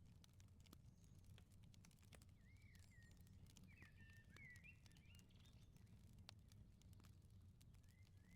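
Faint wood fire crackling with scattered sharp pops over a low steady rumble. A small bird chirps a quick run of short, gliding notes in the middle and once more near the end.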